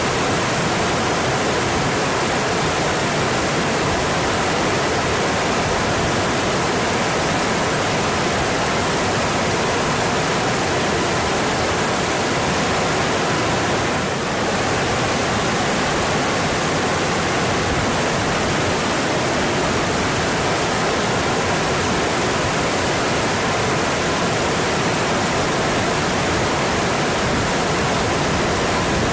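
Mountain stream water rushing steadily over rocks, a constant full, even rush with no breaks.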